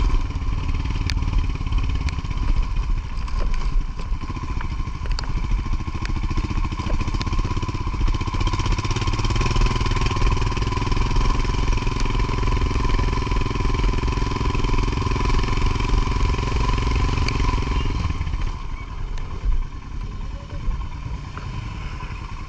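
Motorcycle engine running under way, with a steady high whine over it; about eighteen seconds in the engine eases off and runs quieter.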